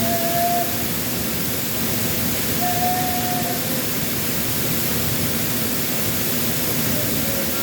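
Waterfall at Shiokawa Falls: a steady, even rush of falling water. Two brief, faint held tones sound over it, once at the start and again about three seconds in.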